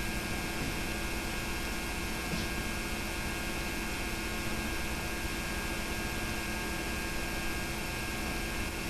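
Steady hiss with a constant electrical hum and no other sound: the background noise of an old tape transfer.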